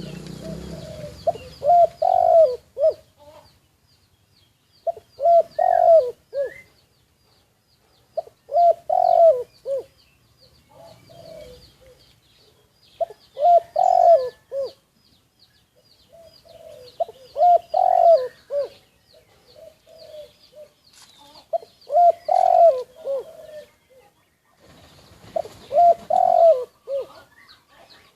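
Spotted dove cooing: seven phrases of several coos each, one about every four seconds. A faint, high, rapid chirping runs underneath.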